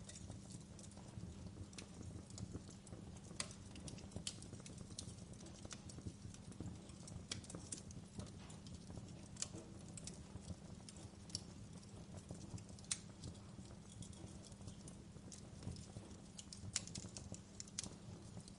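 Wood fire crackling: a steady low rumble of flames with irregular sharp pops and snaps, a sharper pop about thirteen seconds in.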